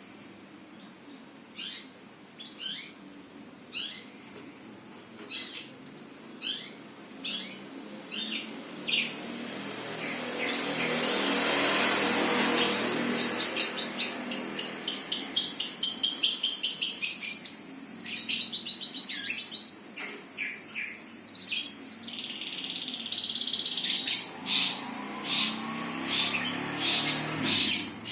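Songbird singing: single short chirps repeated less than a second apart, then a long, fast trilling song through the middle, then single chirps again. A rushing hiss swells up just before the song.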